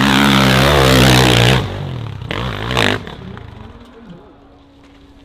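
Dirt bike engine revving hard, loud for about the first second and a half, then dropping off, with one more short burst of throttle near three seconds. After that only a faint steady engine hum remains.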